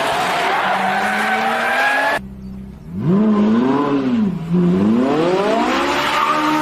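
Car engine at high revs with tyre noise, as in a drift, cut off abruptly about two seconds in. Then a car engine is revved up and down twice and climbs to a steady high-rev note.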